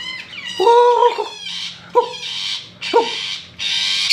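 Papuan butcherbird calling: a run of varied calls, clear notes with downward glides and about three sharp-onset notes roughly a second apart, mixed with harsh rasping calls.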